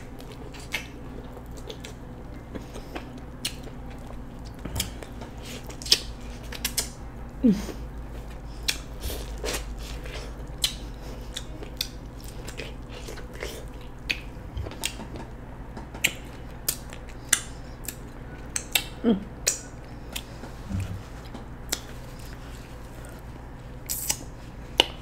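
Close-miked biting and chewing of corn on the cob: kernels crunching and snapping off the cob in many irregular sharp clicks.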